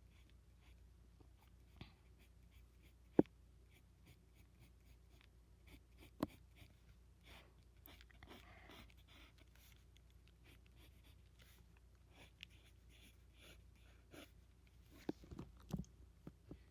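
Pencil scratching and sketching on paper in faint, intermittent strokes, with two sharp clicks about three and six seconds in.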